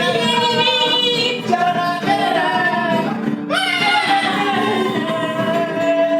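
A voice singing long held notes with wavering pitch over an acoustic guitar.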